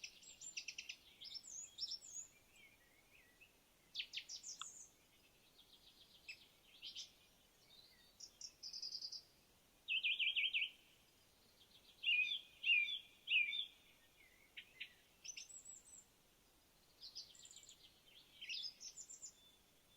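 Birds singing: a series of short, high-pitched chirps, trills and sweeping notes with brief pauses between phrases.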